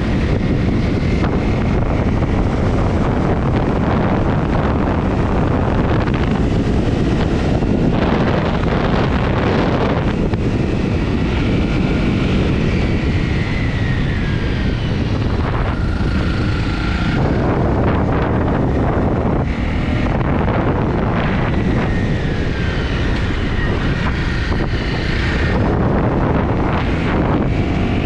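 Honda CRF250 single-cylinder motorbike engine running at riding speed, largely buried under heavy wind noise on the microphone, with its pitch drifting up and down a little as the speed changes.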